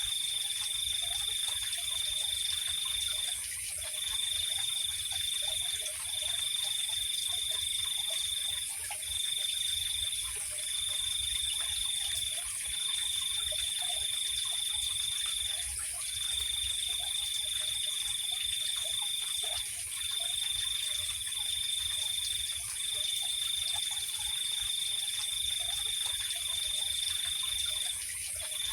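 Night insect chorus: a cricket trills at one high, steady pitch in long trills a few seconds each, broken by short pauses, over a continuous higher-pitched insect hiss.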